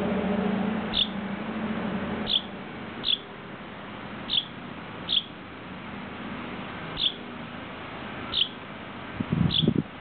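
A fledgling bird giving short, high single peeps, about eight of them, spaced roughly a second apart. A steady low hum fades out in the first two seconds, and a loud low rumble comes near the end.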